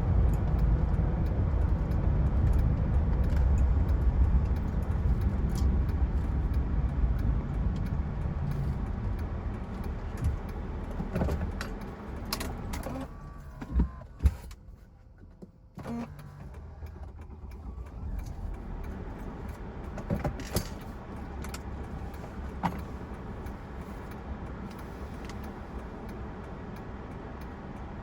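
Mercedes-Benz E320 Bluetec's OM642 3.0-litre V6 turbo diesel and road noise on a drive, loud at first and easing off over the first dozen seconds. Around halfway it goes briefly much quieter with a couple of sharp knocks, then settles into a quieter steady rumble with an occasional click.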